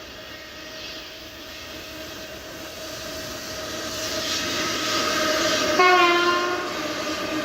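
An approaching electric freight locomotive growing steadily louder, with a steady hum, then one short horn blast about six seconds in.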